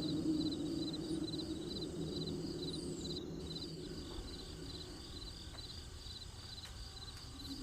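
Field crickets chirping at night, short pulsed chirps repeating steadily, about two a second. A low steady hum underneath fades away in the first few seconds.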